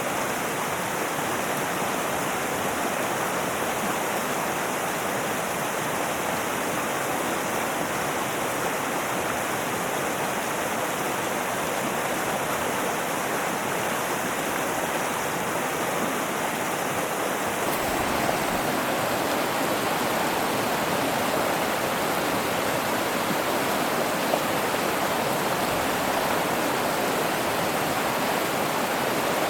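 Mountain river rushing steadily over rocks, its tone shifting slightly about two-thirds of the way through.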